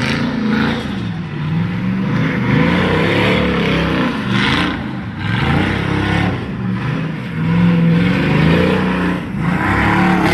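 C4 Corvette's V8 engine revving up and down again and again as the car is driven hard through tight slides.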